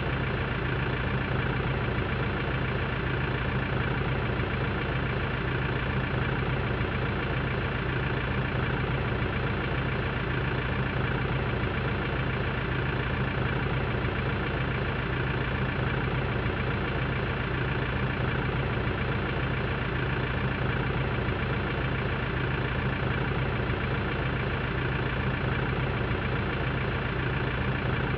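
Tractor engine idling steadily, with an even low hum that does not change.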